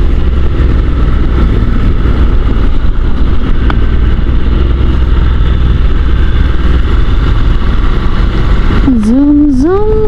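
Honda NC750 DCT motorcycle under way: a steady drone of engine and wind rush on a helmet microphone. Near the end a voice sings out a rising and falling "zoom".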